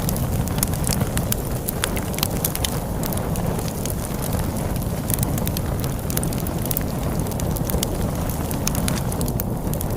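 Wood fire crackling with frequent sharp pops and snaps, over a steady low rumble of storm wind.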